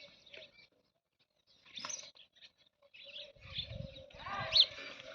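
High-pitched chirping and squeaking animal calls in short irregular bursts, the loudest a quick rising chirp a little after four seconds, with some low thuds beneath.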